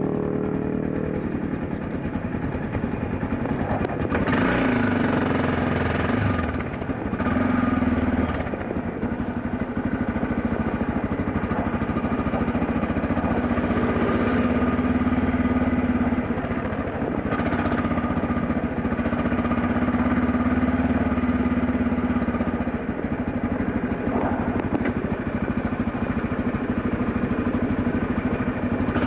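Dirt bike engine running under way as the bike is ridden, the throttle opening and easing off every few seconds.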